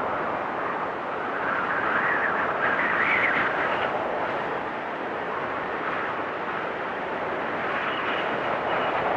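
Strong storm wind blowing steadily, with gusts that swell and rise in pitch a few seconds in and a thin high whistle near the end.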